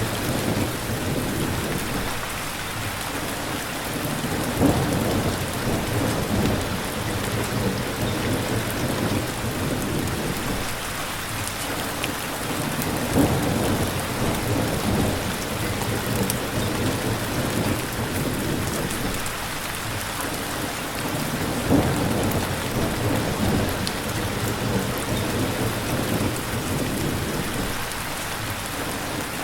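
Steady heavy rainfall hissing evenly, with low rumbles swelling and fading about every eight or nine seconds.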